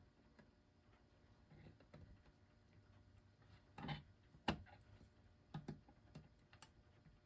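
A few faint, short clicks and taps of small metal tools on the clock's hands and centre stem, as tightly fitted hands are worked loose. The clicks come scattered, several in the second half, with quiet between.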